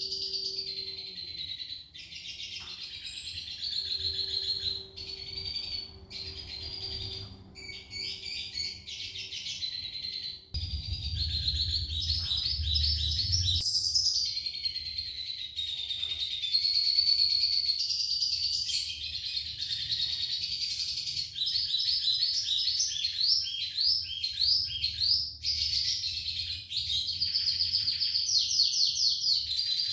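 Red siskin singing almost without pause: a long, varied song of fast trills and twitters. It is a 'gacor isian' bird, one in full song, filled with phrases learned from other birds.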